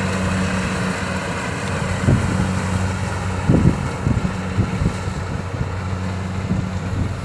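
Kubota DC-70 rice combine harvester's diesel engine running steadily under load. A few low thumps of wind on the microphone come about two to five seconds in.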